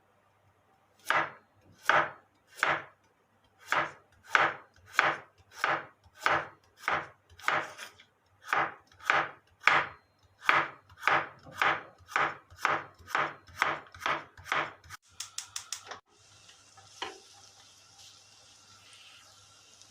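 Knife chopping food on a cutting board in steady, even strokes, about one and a half a second, ending in a quick run of short chops. A steady hiss follows near the end.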